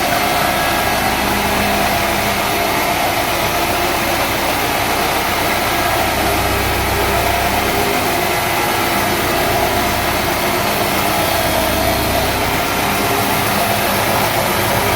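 A sawmill's engine running steadily at idle, with no wood being cut.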